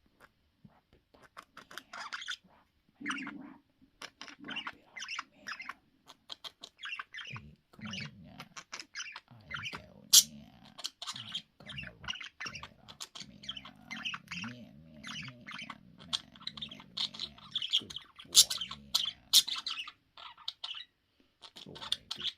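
Pet budgerigars chattering: a busy stream of quick chirps, warbles and squawks, with a few sharper, louder calls about ten seconds in and again near the end.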